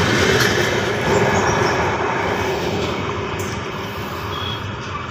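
Passenger train with an electric locomotive passing close by at speed, its wheels running over the rails in a steady rumble that slowly fades as it moves away.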